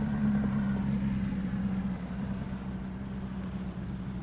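Boat motor running steadily, easing to a slightly lower, quieter note about two seconds in.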